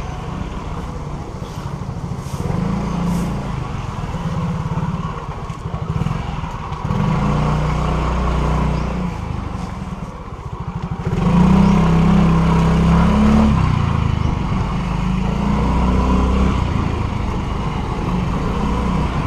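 Motor scooter engine running while riding through street traffic, pulling harder about a third of the way in and again a little past halfway, when it gets loudest.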